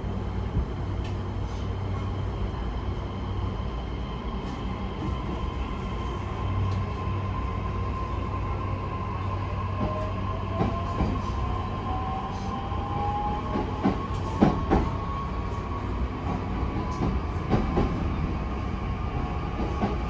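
JR E131 series electric train running, heard from inside the car: a steady low rumble with a motor whine that rises in pitch around the middle as the train gathers speed. Several sharp clacks of the wheels over rail joints come in the second half.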